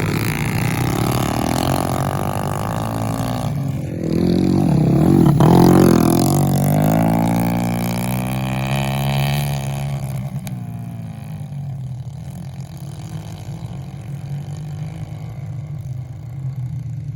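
Motorcycle engines running under throttle as the bikes pass close by, loudest about five to six seconds in, with the pitch dropping as they go past. The sound then fades to a steadier, more distant engine drone.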